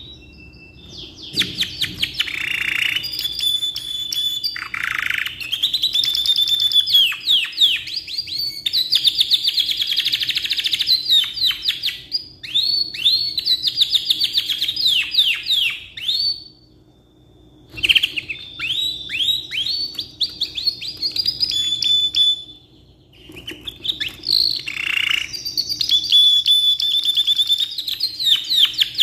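Domestic canary singing long, rapid trills and quick downslurred notes. It pauses briefly about 17 seconds in and again about 23 seconds in.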